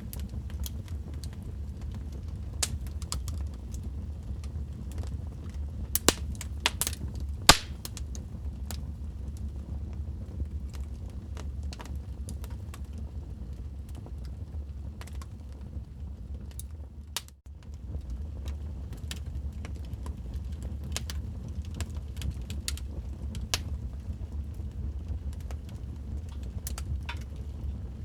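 Wood fire in a fireplace crackling: scattered sharp pops and snaps over a steady low rumble of the flames, with a cluster of the loudest pops about a quarter of the way in. The rumble drops out for a moment a little past halfway.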